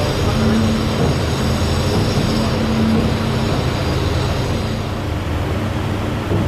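Ferry's engines running steadily under way: a low drone with a steady hum on top, over a broad hiss.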